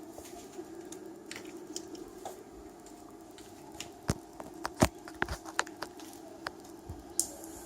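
Handling noises: scattered sharp clicks and taps, loudest about four to five seconds in, over a faint steady hum.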